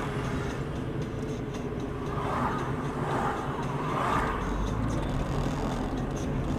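A car's engine and road noise, a steady low hum with a few soft swells.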